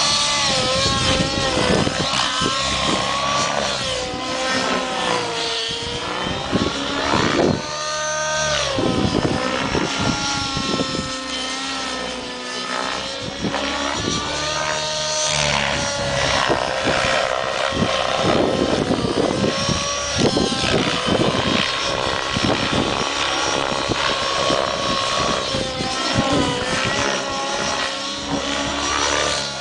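Align T-Rex 700 nitro RC helicopter flying 3D aerobatics: its two-stroke glow engine and rotor whine rise and fall in pitch again and again as it manoeuvres.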